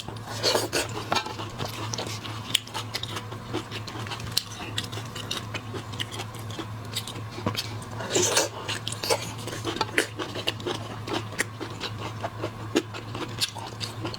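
Irregular clicks and scraping of seafood shells and tableware being handled while eating, with a denser rasping spell about 8 seconds in. A steady low hum lies underneath.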